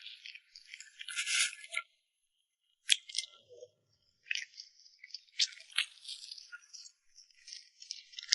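Close-miked crackling and crinkling with several sharp clicks, the handling and eating sounds of a mukbang, with about a second of dead silence in the middle.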